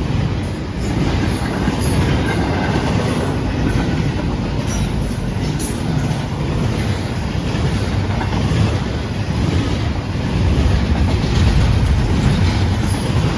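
CSX intermodal freight train passing at speed: a steady rumble of steel wheels on the rails with clickety-clack over the joints, growing a little louder near the end.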